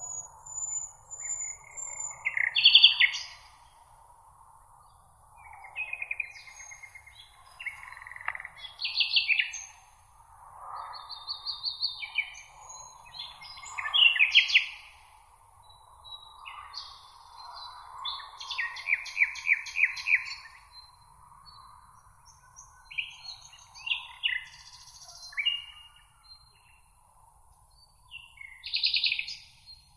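Several songbirds singing, with short trills and chirping phrases following one another every second or two over a faint steady high hiss.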